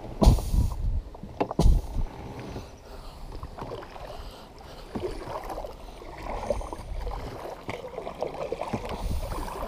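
Sounds from a kayak on the water: two loud knocks about a second and a half apart near the start, then softer, irregular rubbing and water noise.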